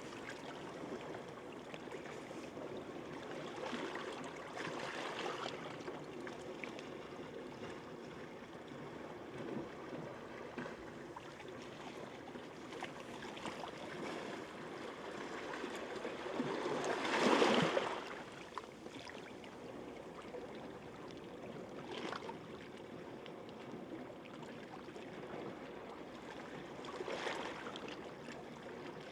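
Calm sea waves washing onto the shore in a steady wash, with a few waves breaking more strongly now and then; the largest breaks a little past halfway.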